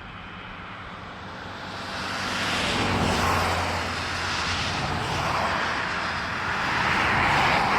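Road traffic: motor vehicles passing, a rushing noise that swells about two to three seconds in with a low engine hum, and swells again near the end.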